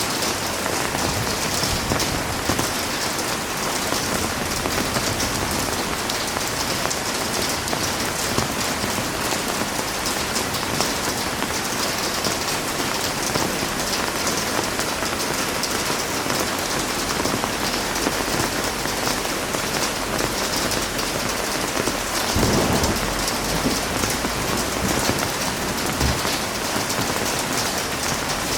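Heavy rain falling steadily, a dense even hiss of drops. About three-quarters of the way through, a brief low rumble rises under the rain.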